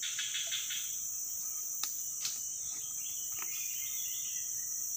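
Steady high-pitched chorus of crickets and other insects, with a few sharp clicks about two seconds in and again past three seconds.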